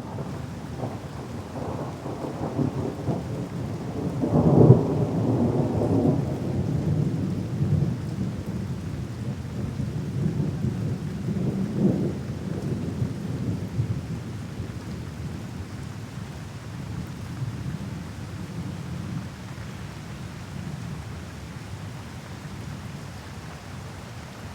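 Thunderstorm: low thunder peaking about five seconds in, swelling again around twelve seconds in, then slowly fading, over a steady hiss of rain.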